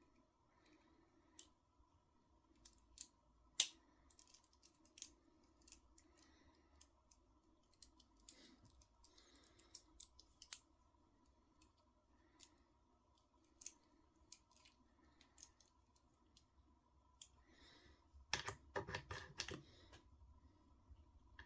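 Faint, scattered clicks and taps of small hand tools and screws on the RC car's steering parts during assembly, with a quick run of rattling clicks near the end.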